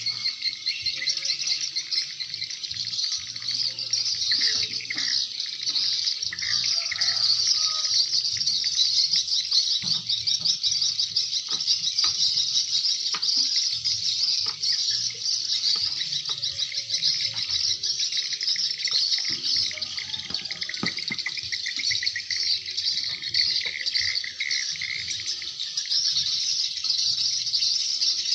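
Swiftlet call-sound recording: dense, continuous high twittering of many swiftlets, the kind of lure sound played to draw the birds into a swiftlet house.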